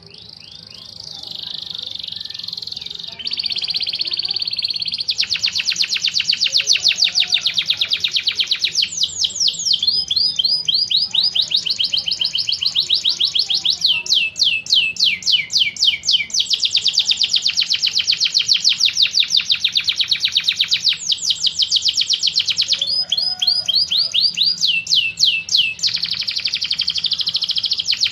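Birdsong trilling in long runs of very fast repeated sweeping notes, switching between trill patterns every few seconds: a combined master recording of tengkek buto, cililin and canary song.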